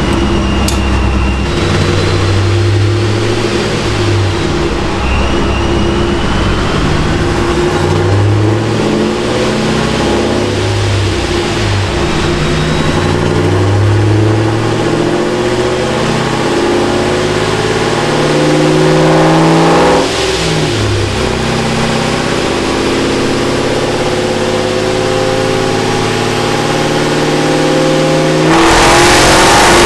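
Supercharged V8 of an S197 Mustang GT running on a chassis dyno, its revs rising and falling repeatedly, with a sudden drop off the throttle about twenty seconds in. Near the end it jumps to a much louder, higher-revving run.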